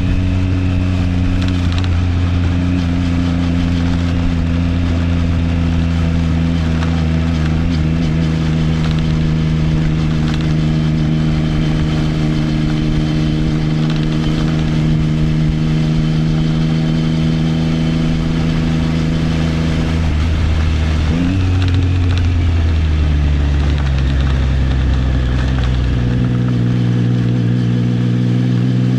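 Triumph Trident 660's three-cylinder engine through an Arrow aftermarket exhaust, running at a steady cruise. About two-thirds of the way through the revs briefly rise, then the pitch drops in steps twice.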